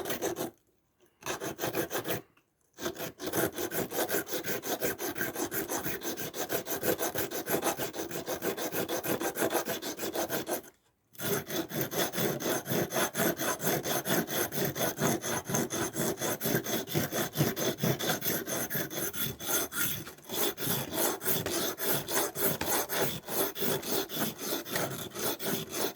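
Steel of a Victorinox pocketknife rubbed rapidly back and forth on a dry scythe whetstone, grinding metal away for stock removal rather than fine sharpening. The strokes run in quick, even succession, with short breaks about a second in, about two and a half seconds in, and near eleven seconds.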